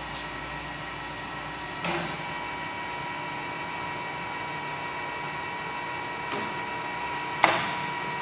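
Kingston HD26160 gap bed lathe running, a steady mechanical hum with a gear whine, broken by two sharp clunks about two seconds in and near the end; the whine grows louder after each clunk.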